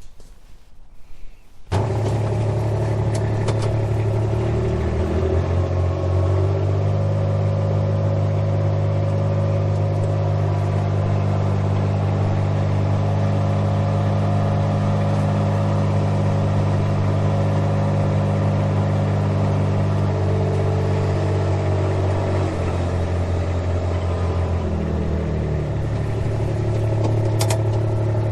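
A motor vehicle engine runs steadily at low speed. It comes in abruptly about two seconds in, and its note shifts a little twice, around five seconds and around twenty-three seconds in.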